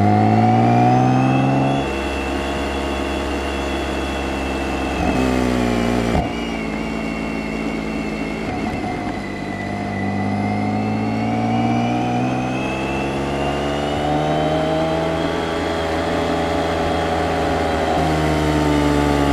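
BMW K1600GT's inline-six engine accelerating through the gears, its pitch climbing and then dropping at upshifts about two and six seconds in. After that the revs sag briefly and climb again at a steady pull.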